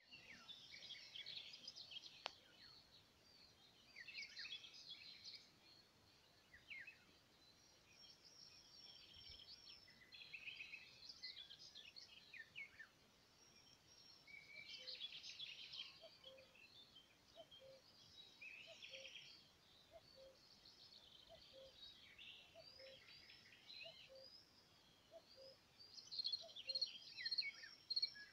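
Faint birdsong: quick chirping phrases come in bursts every couple of seconds, with a soft low note repeating about once a second through the second half. The chirping grows louder near the end.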